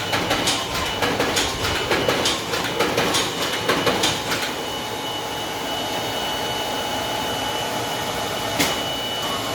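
DigiFold Pro-XL creaser-folder running: a rhythmic clack about twice a second for the first four seconds or so, then a steady mechanical whir with a thin high whine, and a single click near the end.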